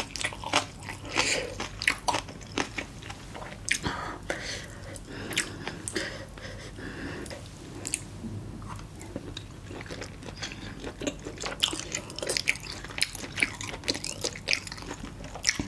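Biting and chewing spicy braised monkfish with bean sprouts (agujjim): many small wet crunches and mouth clicks, thinning out for a few seconds in the middle before the chewing picks up again.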